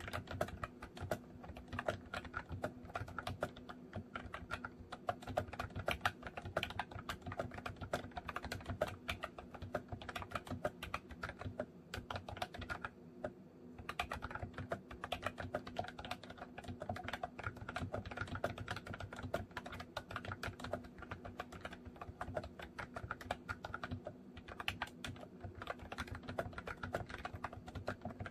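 Continuous typing on a MOFii Candy retro-style keyboard: a dense run of key clicks, thinning briefly about halfway through and again near the end.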